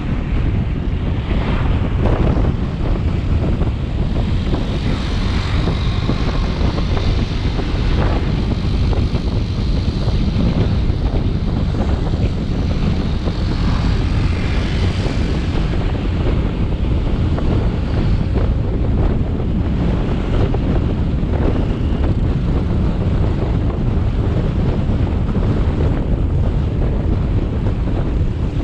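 Motorbike on the move: its engine running steadily under a heavy, even wind rumble on the camera microphone.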